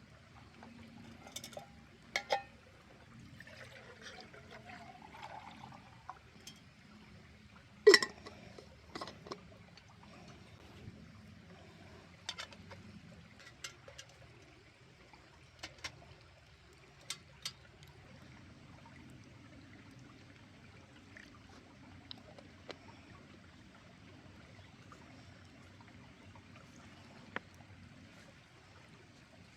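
Water trickling steadily underneath, with scattered sharp clicks and knocks, the loudest about eight seconds in. About four seconds in, a short pour of liquid into a cup, rising in pitch as it fills.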